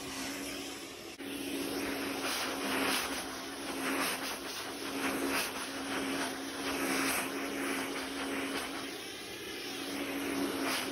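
A household appliance's electric motor running steadily: a rushing air noise over a constant low hum, swelling and easing in loudness.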